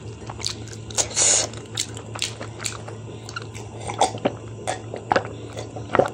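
Close-up mouth sounds of eating rice and chicken curry by hand: wet chewing, lip smacks and sharp little clicks, then swallows while drinking water from a glass mug in the second half. A faint steady low hum lies under it.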